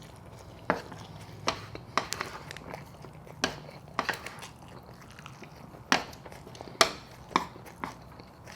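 Close-miked eating sounds: chewing with irregular sharp wet mouth clicks and smacks, about a dozen of them spaced unevenly.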